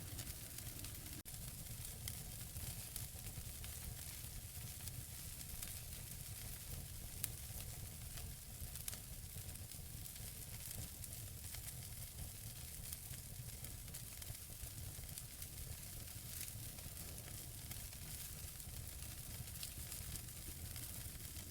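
Wood fire burning in a fireplace: a steady soft hiss with many small crackles and pops from the burning logs, two sharper pops around seven and nine seconds in.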